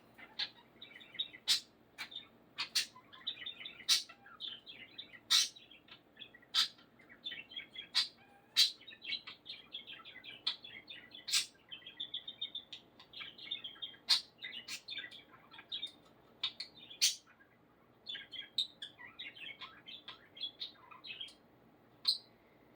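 Male budgerigar chattering and warbling in a rapid, twittering stream, punctuated every second or so by sharp clicks or chirps; this is the budgie talking to a post he perches on.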